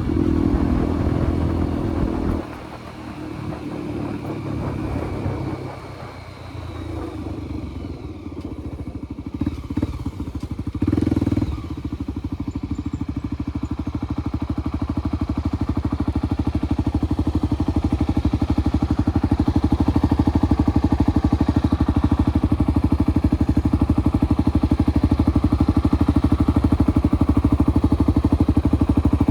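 Single-cylinder motorcycle engine. It runs loud for the first couple of seconds, then drops to a quieter, uneven sound with a short loud burst about eleven seconds in. After that it settles into a steady, even running beat that slowly grows louder.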